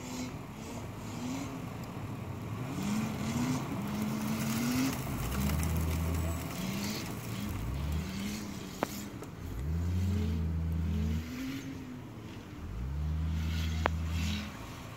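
Car engine revved up again and again, with stretches held at steady revs, as a car stuck in deep snow spins its wheels trying to drive out. Two brief sharp clicks, about nine seconds in and near the end.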